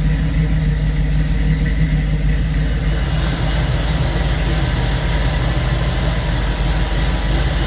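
Supercharged 327 small-block V8 of a 1962 Corvette, fitted with a 1963 Latham supercharger, idling steadily just after a cold start. A high hiss grows louder about three seconds in.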